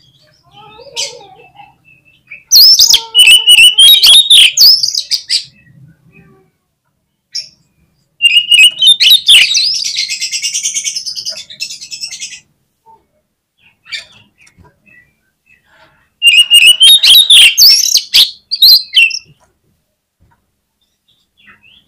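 Oriental magpie-robin (kacer) singing loudly in three bursts of rapid, varied warbling, each lasting a few seconds with short pauses between.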